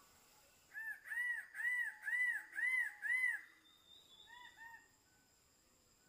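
King bird-of-paradise calling: a run of six loud, clear notes that each rise and fall in pitch, about two a second, followed by a few softer, shorter notes.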